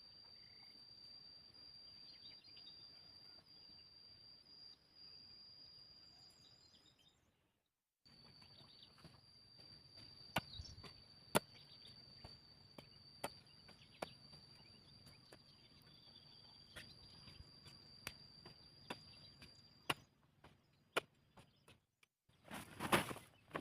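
A steady high-pitched insect drone, as from a cricket or cicada, with scattered sharp clicks and knocks through the middle, and a short louder rustling burst near the end.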